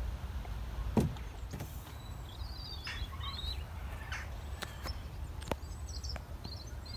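Outdoor ambience: a small bird chirping in short warbling phrases, twice, over a steady low rumble, with a couple of sharp clicks.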